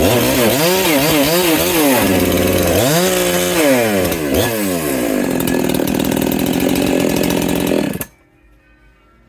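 Large two-stroke chainsaw cutting firewood at full throttle, its engine pitch repeatedly dipping and climbing back during the first few seconds, then running high and steady. It cuts off abruptly about eight seconds in, leaving faint background music.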